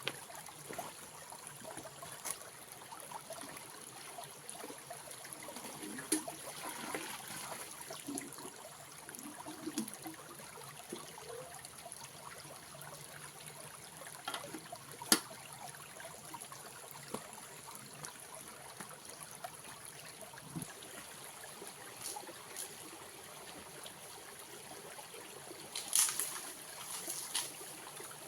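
Water trickling steadily, with scattered light clicks and knocks, one sharp knock about halfway through and a few more near the end.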